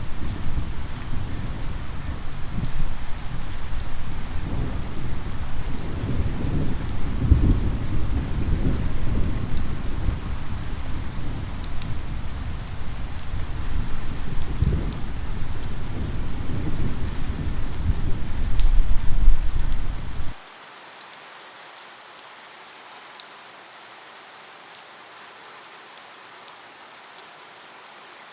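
Steady rain with low rolling thunder. About two-thirds of the way through the thunder rumble cuts off abruptly, leaving quieter steady rain with scattered drips.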